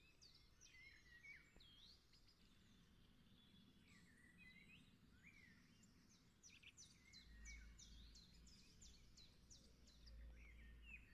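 Faint birdsong: small birds chirping and twittering, with a quick run of short repeated notes over the second half, above a low hum that grows louder near the end.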